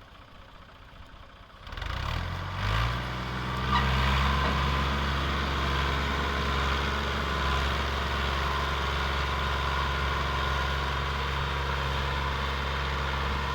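Gazi tractor's diesel engine, low at first, then revving up about two seconds in and running steadily at high revs under load, pulling a loaded sugarcane trolley through mud.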